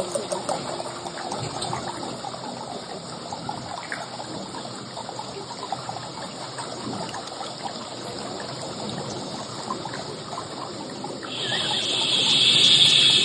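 Outdoor concert crowd applauding, a dense crackle of many hands clapping, with a louder hissing swell near the end.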